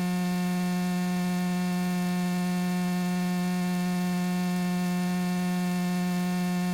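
Steady low electrical buzz, perfectly even in pitch and level with many overtones, in the aircraft's radio and intercom audio feed.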